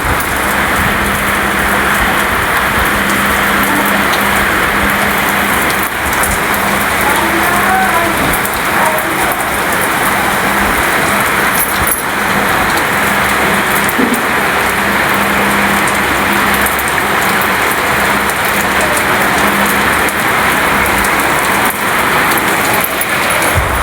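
Heavy rain falling steadily, a dense even hiss, with a low steady hum underneath for much of it.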